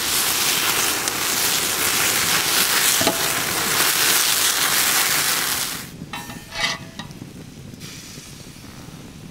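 Tiger prawns sizzling and spitting in hot oil in a fire bowl pan. About six seconds in the loud sizzle drops away suddenly, leaving a fainter sizzle and a few light clicks.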